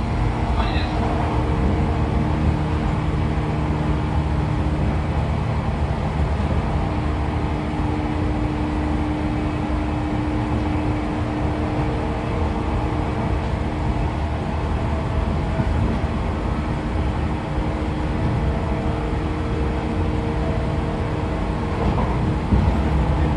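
Running sound inside a 113 series motor car cruising at a steady speed: MT54 DC series-wound traction motors and gears hum at a constant pitch over a steady rumble of wheels on rail.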